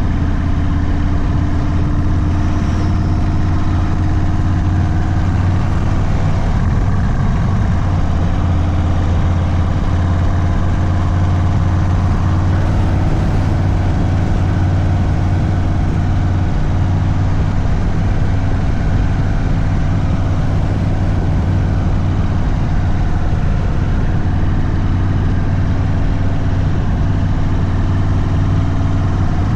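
Indian Sport Chief's V-twin running through a Sawicki Speed aftermarket exhaust at a steady, low engine speed, with a deep, even exhaust note.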